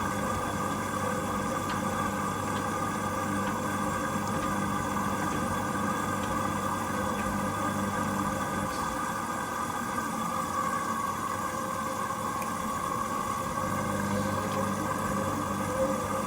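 Hoover Link washing machine running steadily at the start of its first rinse cycle, a continuous even hum with no breaks.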